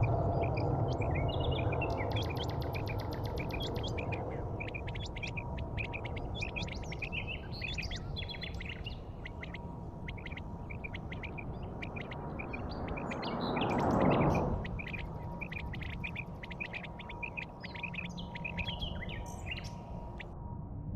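Small birds chirping over and over, short quick calls, above a low steady rumble. A whooshing swell of noise builds about two-thirds of the way through and then cuts off abruptly.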